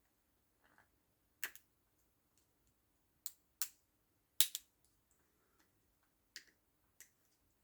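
Sharp clicks and ticks of a small pointed metal tool working at a retaining ring inside a robotic mower's wheel motor housing: about six scattered clicks, the loudest about four and a half seconds in.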